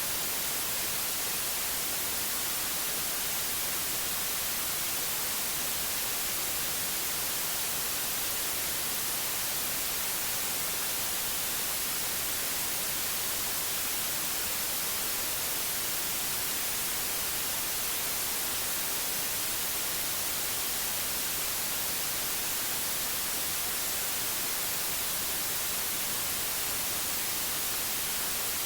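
Steady white noise: an even hiss, brightest in the highs, that does not change.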